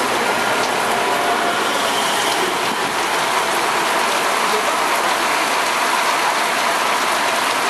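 A passenger train passing at speed through a station, mixed with the steady hiss of heavy rain; the train moves away and the rain is left partway through.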